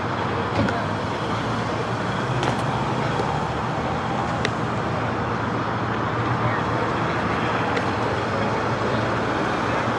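Steady vehicle noise: a car engine's low hum under an even wash of road and traffic noise, with a few faint clicks.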